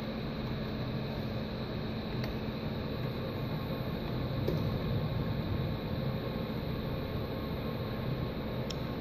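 Steady hum of a powered-up but idle CNC lathe, its spindle not turning, with a few faint clicks.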